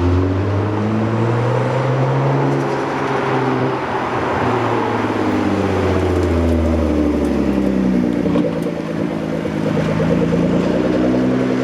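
Straight-piped Nissan GT-R R35 with a titanium exhaust running hard, its twin-turbo V6 note sliding slowly down, up and down again over several seconds.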